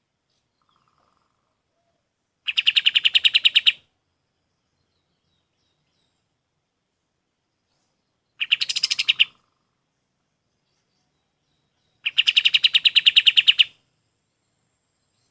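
White-shouldered triller (kapas tembak) giving three rapid trills of sharp repeated notes, about ten notes a second. The first comes about two and a half seconds in, a shorter one at about eight and a half seconds, and a longer one at about twelve seconds, with silent pauses between.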